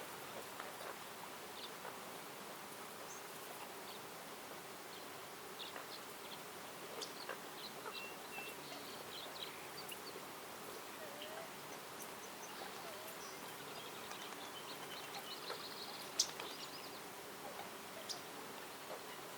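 Quiet forest ambience: a steady background hiss with scattered short, high bird chirps and calls, and a single sharp click about three quarters of the way through.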